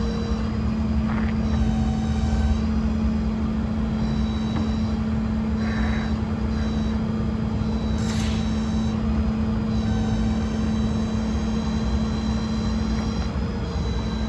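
Bucket truck engine running steadily with a low hum, while a thin high-pitched whine comes and goes several times above it.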